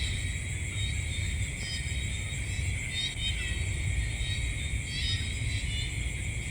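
Night-time chorus of insects: a steady high-pitched trilling on several pitches at once, with short chirps about every second over a low, steady rumble.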